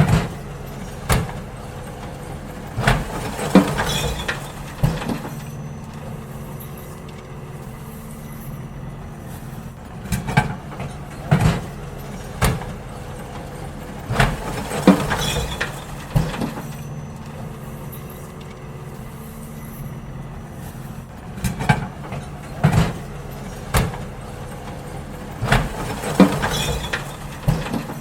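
Garbage truck emptying bins: its engine runs steadily throughout, and three times, about every eleven seconds, a cluster of sharp clanging knocks comes as a bin is lifted and emptied into the truck.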